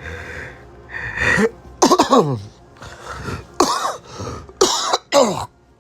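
A man coughing and clearing his throat in about five short bursts.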